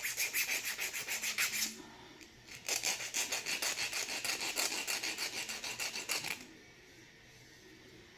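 Rust being scrubbed off the metal terminal of an impulse bag sealer's heating element by hand, in quick back-and-forth scraping strokes, several a second. Two bouts with a short pause about two seconds in; the scraping stops about six seconds in.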